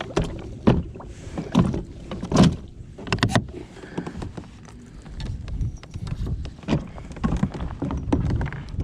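Irregular knocks and bumps aboard a plastic kayak, a dozen or so sharp hits spread unevenly, over a steady low rumble of wind on the microphone.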